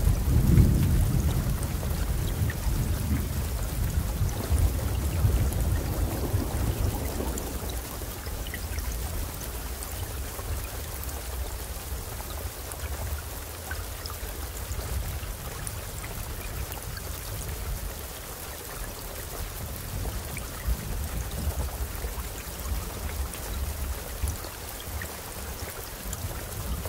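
Steady rainfall in a thunderstorm, with a low thunder rumble at the start that fades over the first several seconds, and another rumble building near the end.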